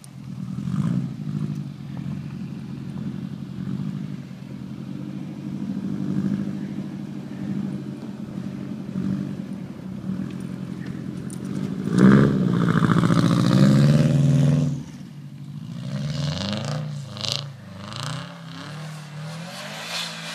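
Small Subaru car's engine running and revving hard as the car is driven sideways in a donut. The loudest, longest burst of revving comes about twelve seconds in and lasts around three seconds.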